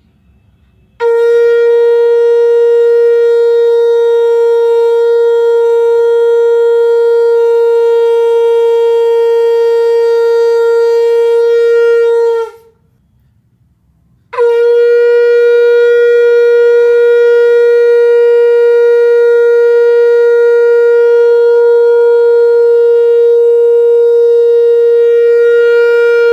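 Conch shell (shankh) blown in shankhnaad: two long blasts at one steady pitch, each lasting about eleven seconds, with a pause of about two seconds between them.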